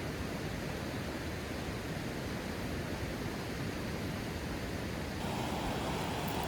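Steady rushing outdoor noise with no distinct events; its tone shifts abruptly about five seconds in.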